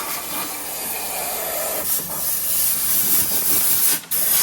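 Compressed-air blow gun blasting hedge-trimming debris out of a tractor's nooks, a steady loud hiss of air that breaks off briefly near the end.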